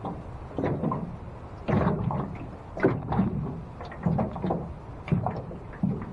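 Strong wind buffeting the microphone in irregular gusts, with a heavy low rumble and sudden surges about once a second.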